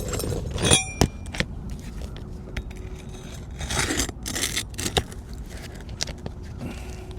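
Scraping and scattered light clicks of a framing hammer being worked under asphalt shingles against the roofing nails to pull them.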